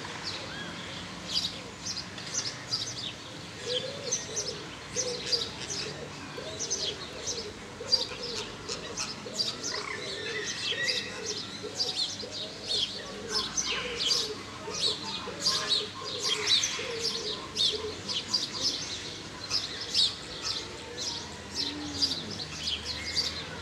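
Many small birds chirping and twittering without a break, with a low arching call repeating about twice a second from about four seconds in until past the middle.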